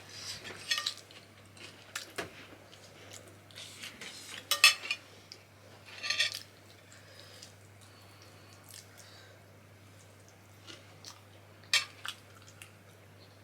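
Scattered clinks and clatters of cutlery and dishes during a meal, a handful of short knocks with quiet stretches between.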